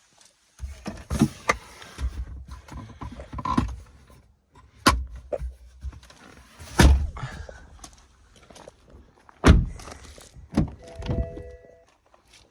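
Car doors on a BMW 525d saloon being opened and shut: about six heavy thunks spread over several seconds, with a short electronic tone near the end.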